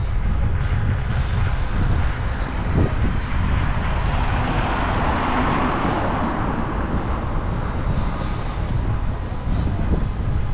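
City street traffic with a steady low rumble; a passing vehicle's noise swells to a peak about halfway through and fades away.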